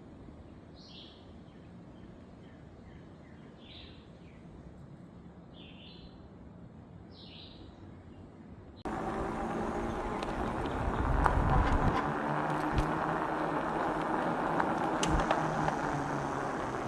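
A bird calling in short, falling chirps every second or two over a quiet background. About nine seconds in, the sound cuts abruptly to a much louder, steady rumbling noise with a low hum and scattered clicks.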